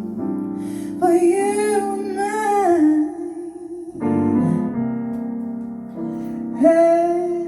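A woman sings long held notes with vibrato over a slow piano accompaniment. A new piano chord is struck about halfway through.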